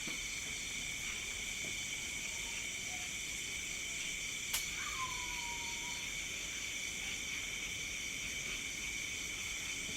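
Night chorus of crickets and other insects, a steady layered high-pitched trilling. About halfway through there is a single sharp click, followed by a brief, faint tone that falls slightly.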